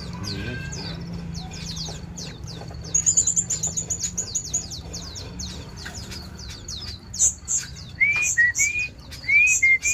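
Several caged birds chirping and calling together, with a stream of quick high chirps. About three seconds in there is a fast high trill. From about eight seconds in, loud whistled notes slide upward and repeat.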